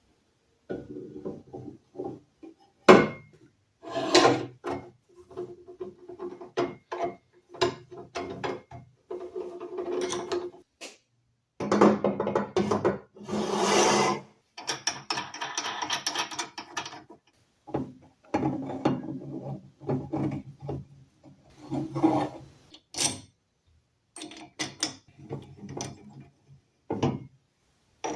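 Wood being scraped and rubbed in many short, separate bursts, a few seconds each, with sudden silent breaks between them.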